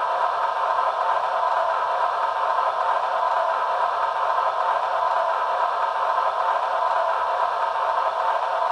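Sound system of a Broadway Limited HO-scale GE AC6000 model locomotive playing a steady, even hiss-like locomotive sound through its small onboard speaker, with no distinct beat or pitch.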